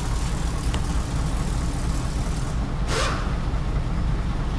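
Mercedes truck's six-cylinder diesel engine idling steadily, with a short hiss about three seconds in. Cylinder number 4 has been diagnosed as not working, which the title puts down to its injector.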